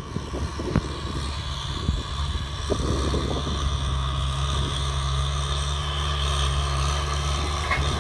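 Diesel farm tractor engine running steadily, with a few short knocks in the first three seconds.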